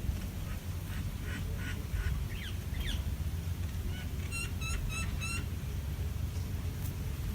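Bird calls: a few scattered short calls, then a quick series of five short, high calls about four seconds in, over a steady low rumble.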